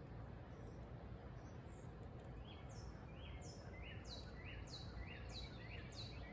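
A bird calling a series of about six short, high notes, each falling in pitch, about three every two seconds. The calls start a few seconds in, over a faint steady background hiss.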